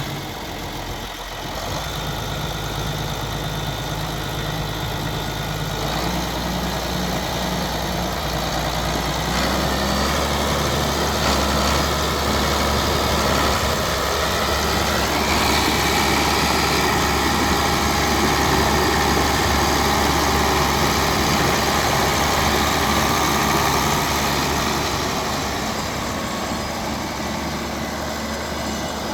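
John Deere 4450 tractor's six-cylinder diesel engine running just after start-up, idling steadily. It gets gradually louder through the first half and eases back again a few seconds before the end.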